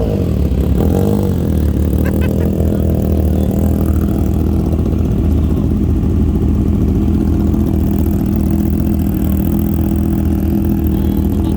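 Big motorcycle engine idling after a cold start. The revs waver briefly about a second in, then it settles into a steady idle.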